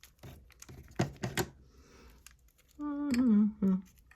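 A few sharp clicks and taps as small pieces are handled on a tabletop. Near the end comes a brief hummed "hmm" that falls in pitch, followed by a shorter second hum.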